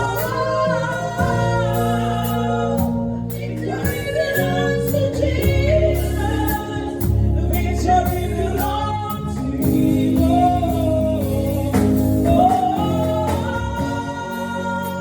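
Gospel worship song: voices singing long, gliding held notes over steady instrumental backing.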